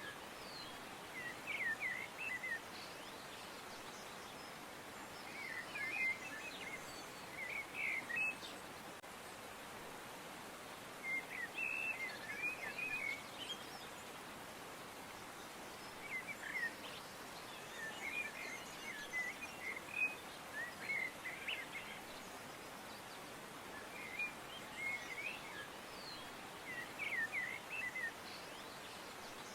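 Small birds chirping in short bursts of quick chirps every second or two, over a steady faint background hiss.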